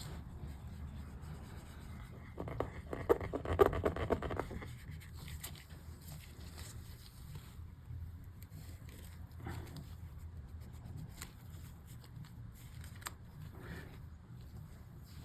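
Scraping and rubbing at melted residue on MacBook keys, a short run of scratchy strokes about three seconds in, then a few light clicks against a low hum.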